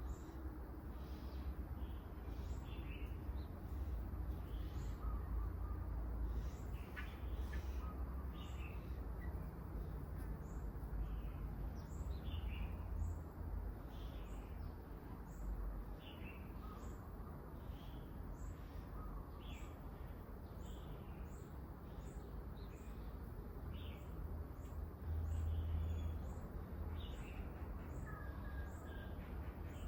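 Small birds chirping: many short, high, falling chirps that overlap and repeat without a break, over a low steady rumble.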